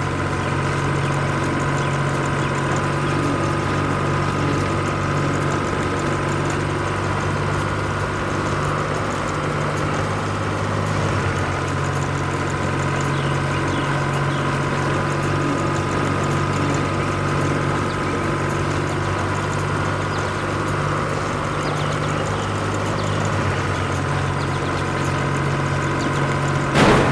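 Fire truck's engine idling steadily, with a brief louder sound just before the end.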